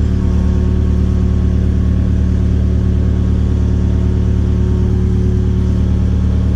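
Kubota KX057-5 mini excavator's diesel engine running steadily.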